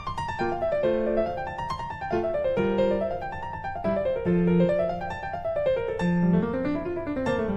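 Background piano music: a keyboard playing quick notes in repeated rising and falling runs.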